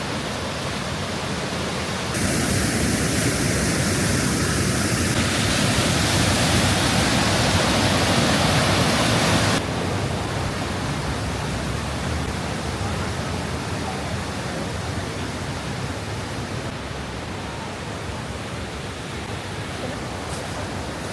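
Waterfall's steady rushing water noise, louder from about two seconds in until it drops back abruptly near ten seconds.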